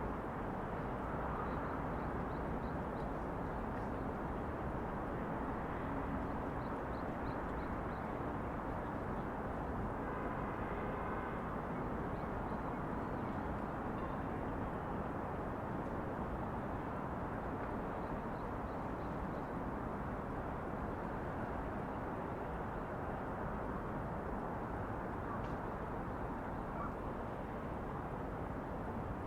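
Steady outdoor city ambience: a continuous hum of distant traffic, with a few faint high chirps now and then.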